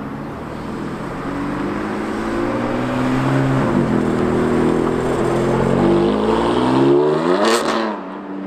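BMW M4's twin-turbo straight-six accelerating hard, the engine note climbing through the revs with a gear change about three and a half seconds in, then climbing again and growing louder. Near the end another car passes close by and the engine sound falls away.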